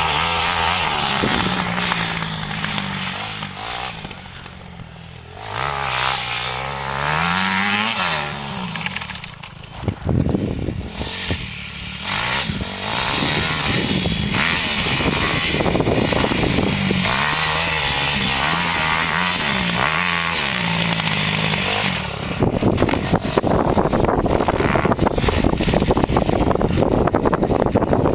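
Suzuki RM-Z250 four-stroke single-cylinder motocross engine being ridden, its pitch rising and falling as the throttle opens and closes through gear changes. It drops off briefly twice early on. For the last several seconds a louder, rougher rasp of noise takes over.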